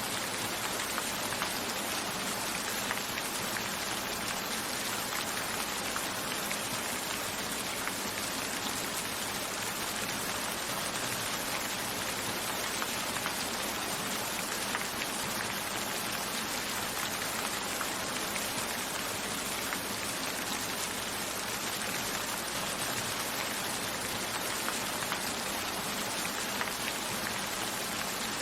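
Steady rain falling, an even hiss with fine drop patter, as of raindrops on a window.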